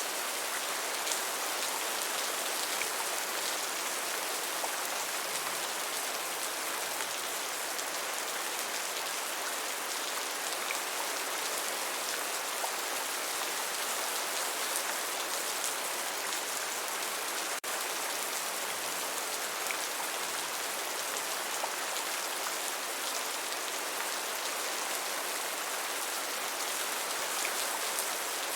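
Steady rain: an even hiss of falling drops with scattered small drop ticks. There is a split-second gap about two-thirds of the way through.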